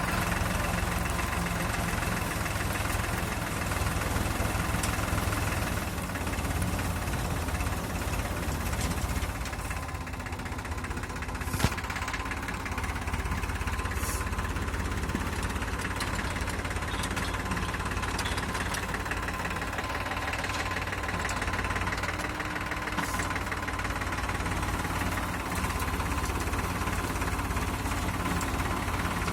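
Tractor engine running steadily, with a single sharp knock about a third of the way in.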